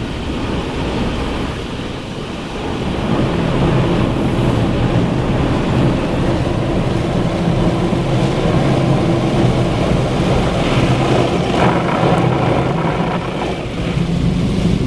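Mark VII ChoiceWash XT automatic car wash working over the car, heard from inside the cabin: spinning brushes and spraying water against the body over a steady motor hum. It grows louder about three seconds in.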